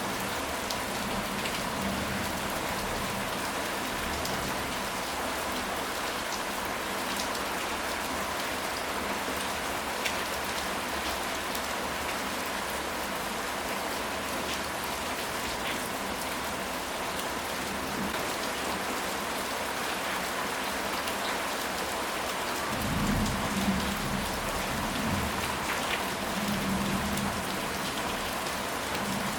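Steady rain falling on a surface, with scattered drop ticks. About three-quarters of the way in, a low rumble of thunder rolls for several seconds.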